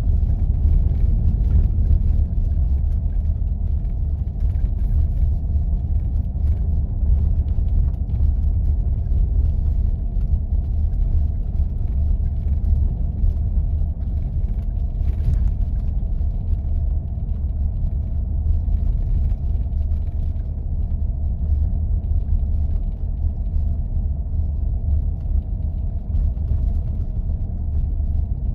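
Jeep driving on snow-covered roads: a steady low rumble of engine and tyres.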